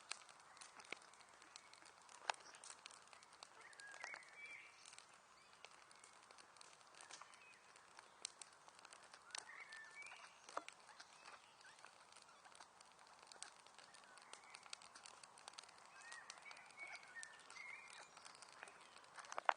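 Wood fire crackling, with irregular small pops and snaps and one sharper pop at the end. Faint short chirps, likely birds, come and go behind it.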